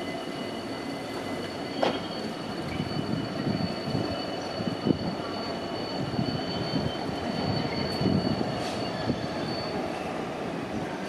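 A train running past on the track, its wheels squealing in steady high tones over a low rumble, with sharp knocks about two and five seconds in. The highest squeal stops near the end.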